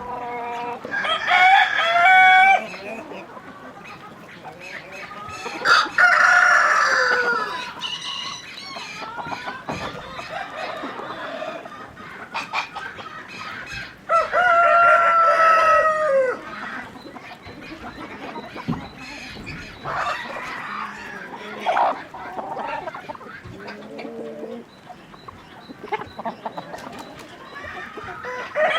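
Roosters crowing: three long crows, about a second in, about six seconds in and about fourteen seconds in, with hens clucking in between.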